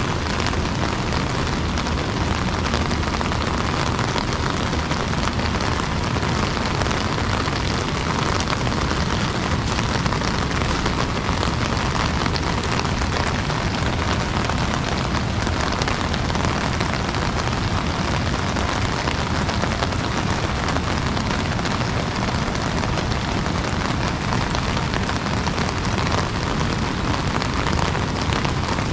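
Steady rain falling on an umbrella: a dense, even hiss of countless fine drop hits with no change in strength.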